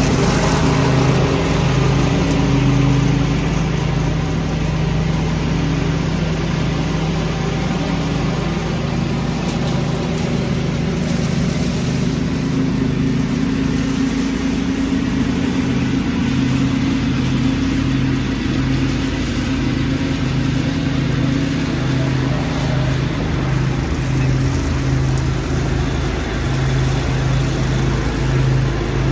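Lawn tractor with a leaf vacuum running steadily while vacuuming leaves: a small engine's steady hum with a constant rushing noise over it.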